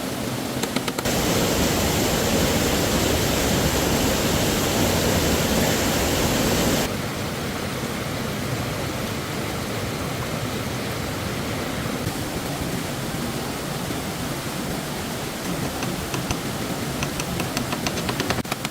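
Water of a stream rushing steadily. It is louder for about six seconds, then drops abruptly to a lower steady rush. Faint rapid ticking comes in near the end.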